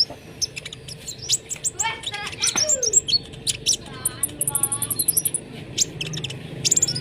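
Konin songbirds singing in quick, high chirps and sweeping notes, with a fast, high trill about four seconds in; the birds are in full, active song ('gacor').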